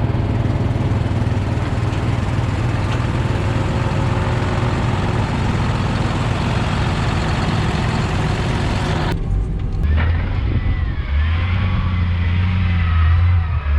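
Tractor engine running steadily. About nine seconds in, the sound cuts to another engine running, with a wavering whine above it.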